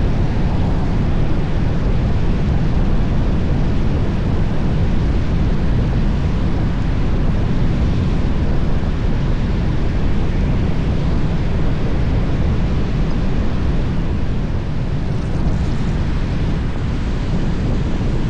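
Steady rushing wind and road noise from a car driving along a road, heavy on the camera microphone and strongest in the low end.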